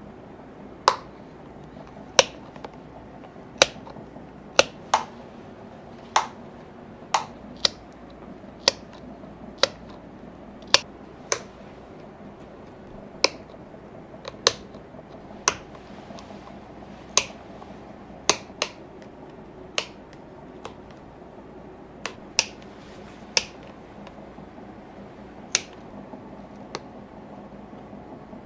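A series of sharp, dry clicks at uneven intervals, roughly one a second, over a faint steady background hum.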